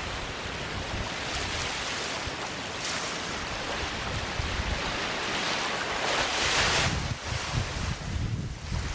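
Small waves washing onto a sandy beach, a continuous surf hiss with one louder wash about two-thirds of the way through. Low rumbling gusts of wind on the microphone.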